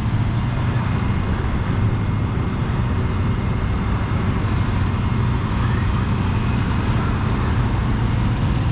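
Steady low rumble of motor vehicles running, engines and traffic noise, with no single event standing out.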